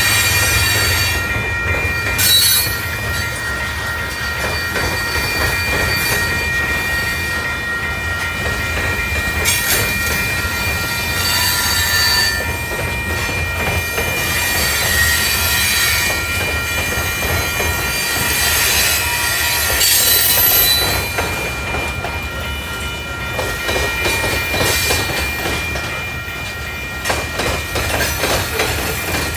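Freight train of covered hopper cars rolling past at close range: a steady low rumble with several high, steady squealing tones from the wheels, and clicking over the rail joints that grows more rapid near the end.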